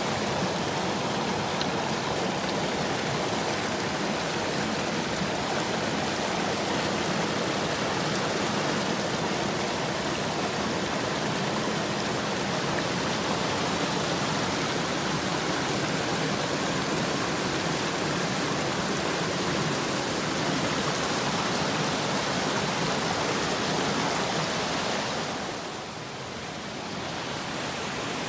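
Mountain stream rushing over rocks: a steady, dense wash of water. Near the end it briefly drops quieter, then rises again a little.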